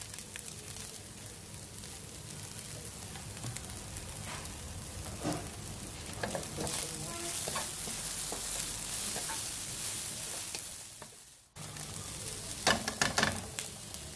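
Beef strips, onion and carrot sticks sizzling in hot oil in a nonstick frying pan while a wooden spoon stirs and scrapes them about. The sound drops out briefly about two-thirds through, and a few sharp clacks follow near the end.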